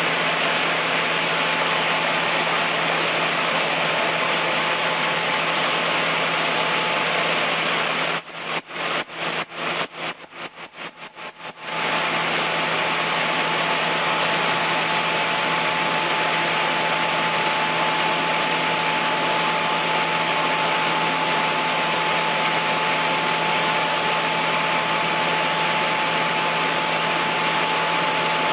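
Chainsaw mill's engine running steadily under load. About a third of the way in, the sound breaks up for a few seconds in a quick run of short dropouts, then carries on steadily.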